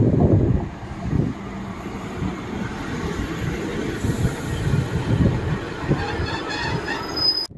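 A train running past with a low rumble. Near the end a thin high wheel squeal comes in, and the sound cuts off suddenly.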